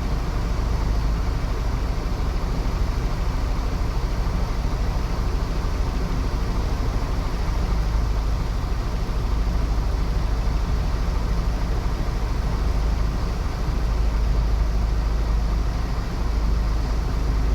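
Heavy vehicle running steadily: a continuous deep engine rumble with a hiss above it.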